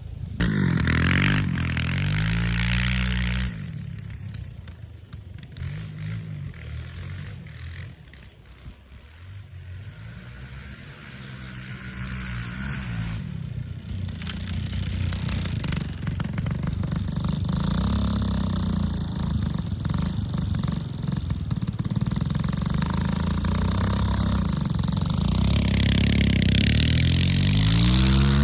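Kawasaki KLX dirt bike's single-cylinder four-stroke engine running and being revved up and down repeatedly. It is loud for the first few seconds, fades for several seconds, then grows steadily louder again toward the end.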